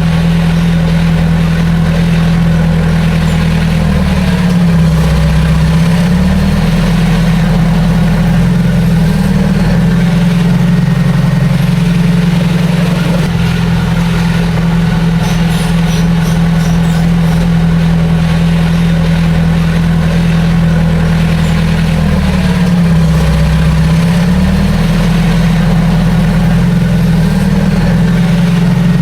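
Heavy diesel engine of a bulldozer running steadily at high revs. Its pitch dips briefly and recovers twice, once about five seconds in and again near the end.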